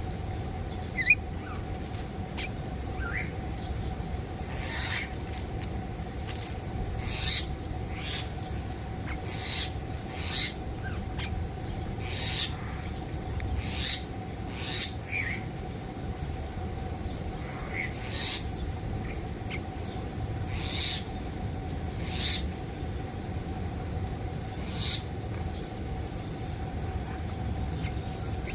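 Aviary birds calling: short, sharp high calls every second or two, over a steady background hum.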